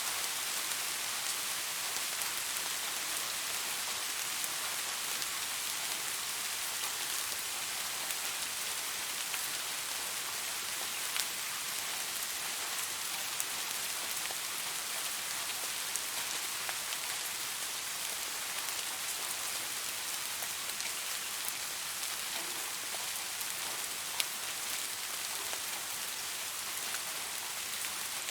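Steady rainfall: an even hiss of falling rain, with scattered sharper drop ticks on a surface.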